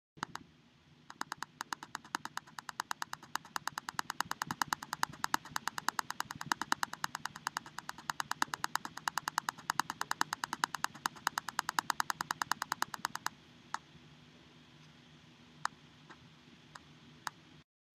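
Rapid, even clicks at about six a second over a faint low hum. About 13 seconds in they thin out to a few scattered clicks, and the sound cuts off abruptly near the end.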